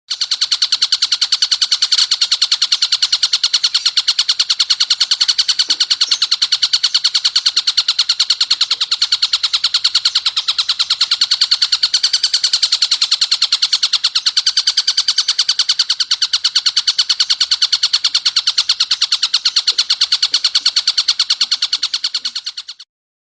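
Recorded bird calls from a songbird-training track: a fast, steady string of sharp repeated notes, several a second without a break, loud and high-pitched. It cuts off abruptly near the end, into a silent pause in the track.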